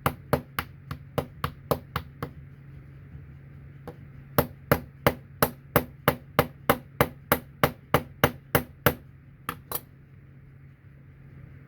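Rapid sharp tapping, about four taps a second, as dually wheels on a diecast model truck are tapped down onto their axle. The taps pause for about two seconds, start again, and stop near the end.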